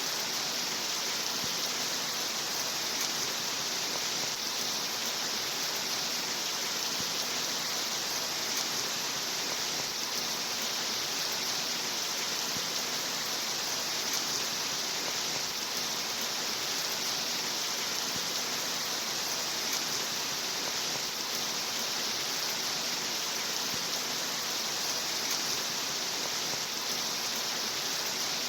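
Steady rainfall: a dense, even hiss of rain with no breaks or changes, brightest in its upper range.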